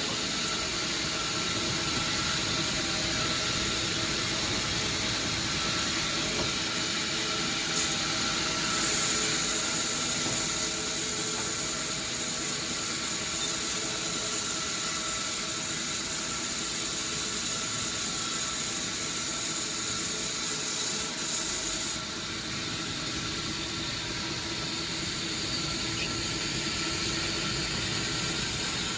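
Sawmill saw running with a steady machine hum. From about nine seconds in a strong high hiss joins it as the blade cuts through the wood, stopping suddenly at about twenty-two seconds.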